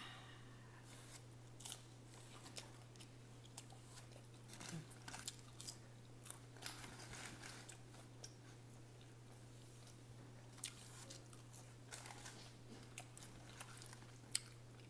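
Faint, close chewing of a McDonald's chicken nugget: soft wet mouth sounds with scattered small crunches and clicks, and a sharper click near the end. A low steady hum runs underneath.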